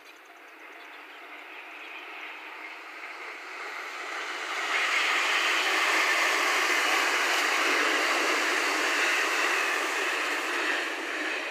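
Two electric passenger trains going by on the line. The rolling noise of wheels on rail swells over the first five seconds, holds steady and loud, then begins to ease near the end.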